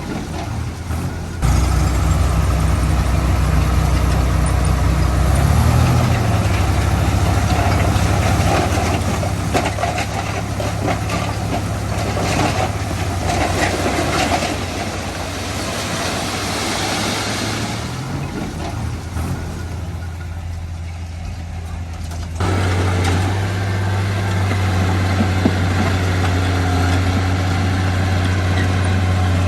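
Heavy diesel construction machinery running steadily, its engine note shifting with load. The sound changes abruptly twice, about a second and a half in and again late on.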